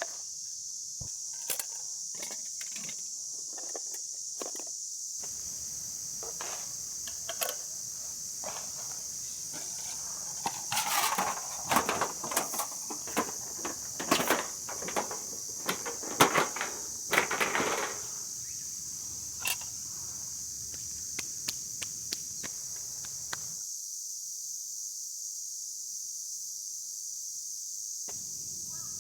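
Steady, high-pitched chirring of an insect chorus, with scattered clicks, knocks and rustles of things being handled close by, busiest in the middle.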